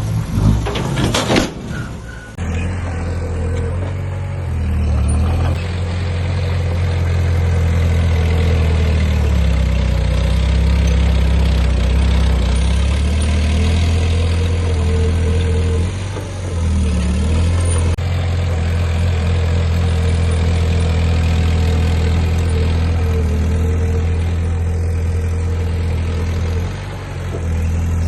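Heavy diesel engine of earthmoving machinery running steadily under a low, even hum, its pitch sagging briefly three times. A burst of clattering knocks opens the first two seconds.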